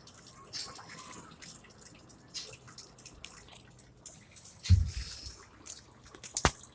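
Water dripping and splashing in irregular small ticks, with a heavy low thump a little past the middle and a sharp click near the end.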